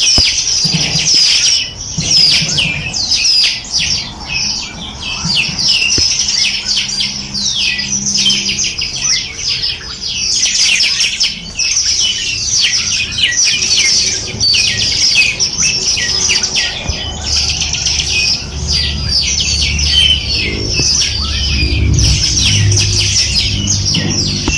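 A chorus of many small birds chirping and twittering, with quick high calls overlapping without a break.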